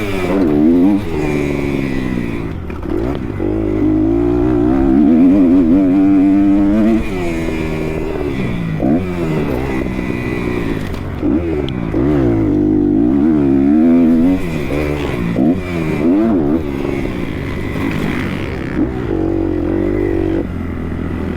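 Kawasaki KX 250 motocross bike engine revving up and falling back again and again as the rider opens and closes the throttle around the track, heard from a helmet camera.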